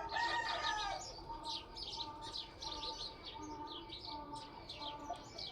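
Aseel chickens calling: a loud drawn-out call in the first second, then many short high chirps throughout.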